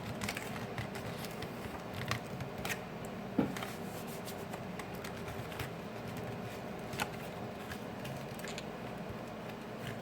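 Faint scattered scrapes and small clicks of a pry tool working under a smartphone's glued-in battery to lift it from the frame, over a steady low hum.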